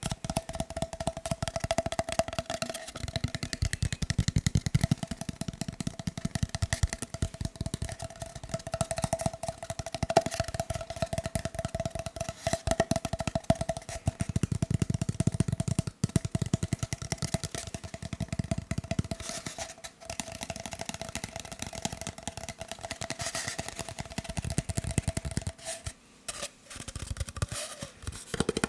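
Fast tapping on a paper roll, a rapid stream of light knocks with a steady tone ringing underneath. Near the end the tone stops and the taps come in sparser bursts.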